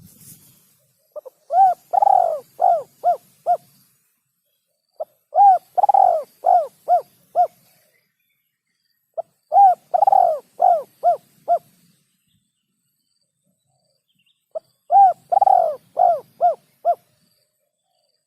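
Male spotted dove (tekukur) cooing: four repeated phrases a few seconds apart. Each phrase is a short lead note, then a long swelling coo, then a quick run of four shorter coos. This is the male's advertising call, used as a lure for dove hunting.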